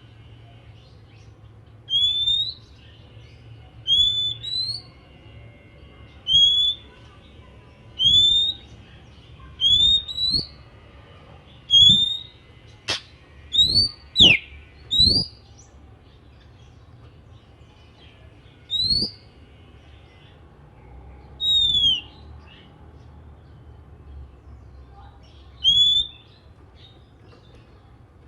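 Oriental magpie-robin (kacer) repeating a short, loud, upward-sweeping whistled call about every two seconds. About halfway through it gives a quicker run of notes, one of them falling, then the calls thin out to one every few seconds.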